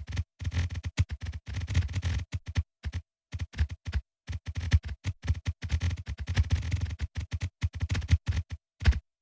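Rapid, irregular electronic clicks and blips, each stopping dead, bunched in dense clusters with short silent gaps between them. These are synthetic event sounds of the kind used to mark each earthquake as it appears on the map.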